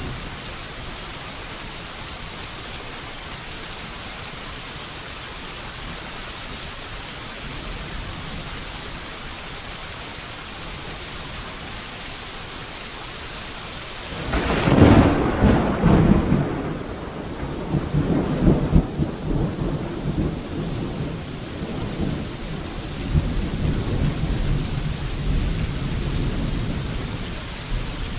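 Steady rain falling, then about halfway a thunderclap breaks in with a sudden crack and rolls on as a long, low rumble of thunder that slowly dies away under the rain.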